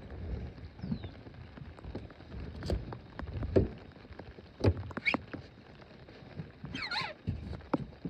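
Scattered knocks and clicks of gear being handled in a small boat over a low rumble of handling or wind on the microphone, with a short squeaky chirp near the end.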